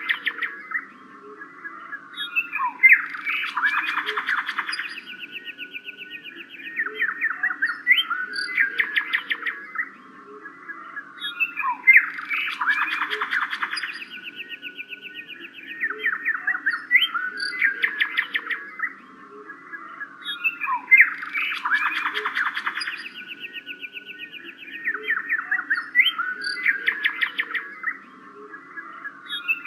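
Songbirds chirping and trilling, with the same run of calls coming round about every nine seconds, over a steady low background hum.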